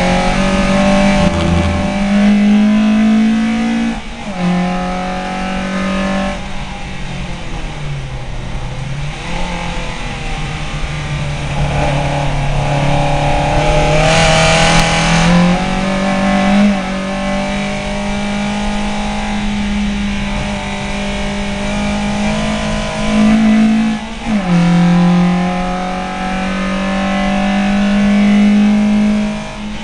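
VW Lupo race car's engine heard from inside the cabin under hard acceleration. Its pitch climbs through each gear and drops sharply at the upshifts, about four times, with a dip in revs around eight seconds in as the car lifts off and then pulls again.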